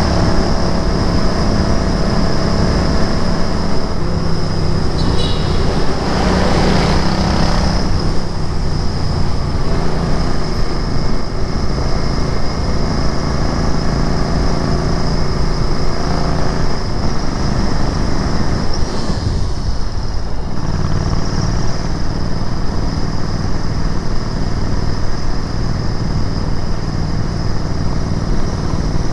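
Royal Enfield Interceptor 650's parallel-twin engine running as the motorcycle is ridden through city traffic. The engine note shifts several times, with a brief drop about twenty seconds in.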